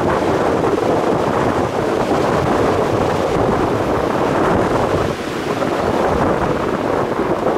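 Strong wind buffeting the microphone: a loud, steady rushing rumble that eases slightly about five seconds in.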